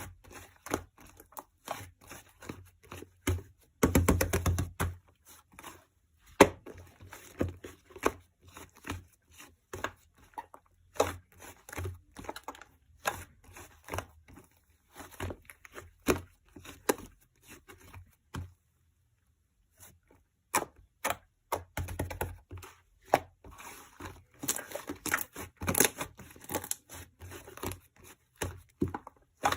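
Close handling noises: a run of sharp clicks, taps and crinkling rustles like paper or plastic being handled and torn, with a longer, louder rustle about four seconds in and a short silent pause past the middle.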